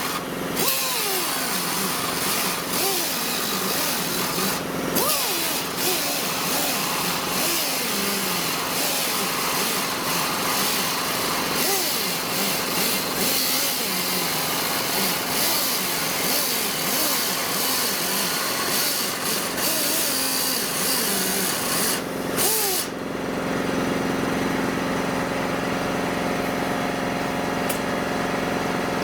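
Power cutting tool, a cut-off wheel, cutting through car-body sheet metal: a loud hissing grind whose pitch keeps sagging and recovering as the wheel bites, with brief breaks, stopping about 23 seconds in. A steady machine hum then carries on.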